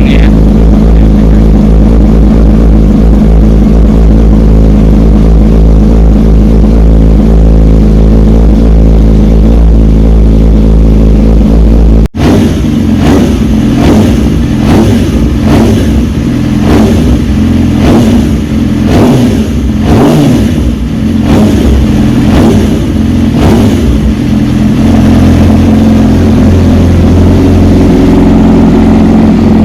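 600 cc inline-four supersport motorcycle engine running loudly at a steady speed. After an abrupt cut about twelve seconds in, it is blipped in a quick run of revs, a little more than one blip a second, then settles back to a steady run near the end.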